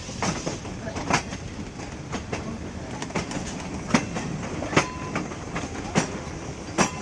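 Passenger train coaches rolling along the track with a steady rumble, the wheels clacking over rail joints in sharp, uneven clicks.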